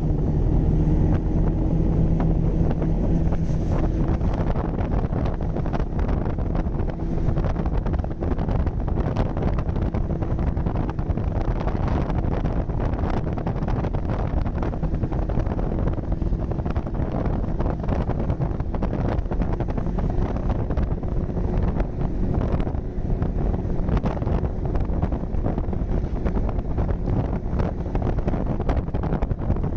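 Snowmobile engine running steadily at speed, a low hum under heavy wind buffeting on the microphone.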